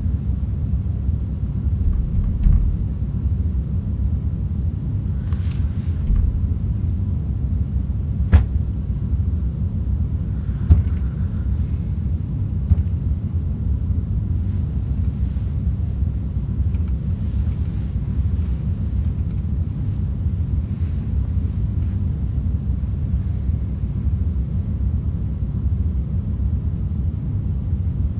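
Steady low rumble throughout, with a couple of short sharp knocks about eight and eleven seconds in.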